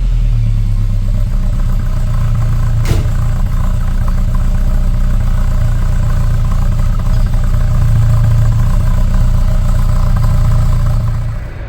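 Volvo 244's B200 four-cylinder engine running steadily through a new Simons sport exhaust, a deep, even drone, with one short click about three seconds in.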